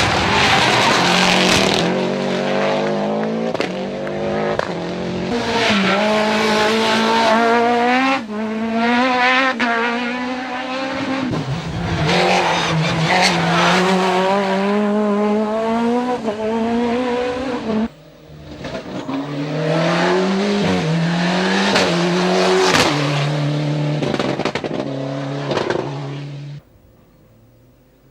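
Rally car engine driven hard, its pitch climbing through the revs and dropping back at each gear change, over and over, with some tyre squeal. The engine sound stops abruptly near the end.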